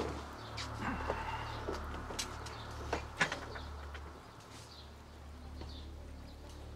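Garden ambience: scattered bird chirps over a low steady hum, with a few light clicks and knocks in the first three seconds.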